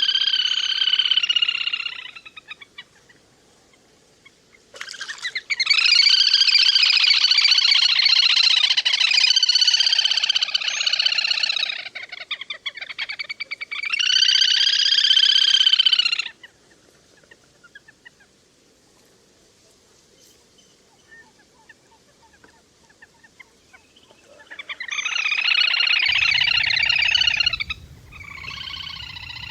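Le le hôi calls from a recording played to call the flock in. Loud bouts of repeated pitched cries come five times with quiet gaps between them, and the longest bout lasts about six seconds.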